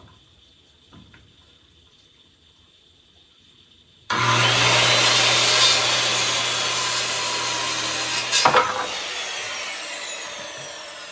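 Electric chop saw started about four seconds in, running and cutting through a 2x4. After about four seconds the motor is switched off and the blade spins down with a falling whine.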